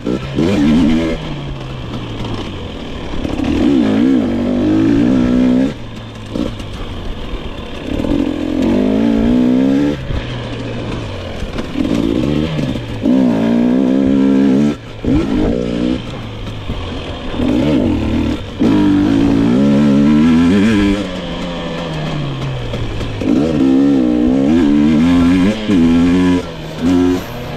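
GasGas EX 250 two-stroke fuel-injected dirt bike engine under load while riding, revving hard and easing off again and again: about six bursts of throttle, each with the pitch climbing and then dropping back.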